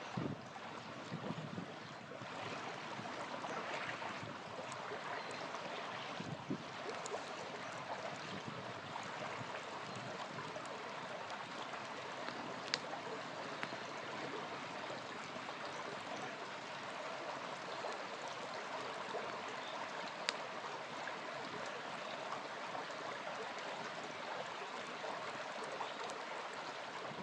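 A small river flowing steadily, with a couple of sharp pops from the campfire, one about halfway through and another near the end.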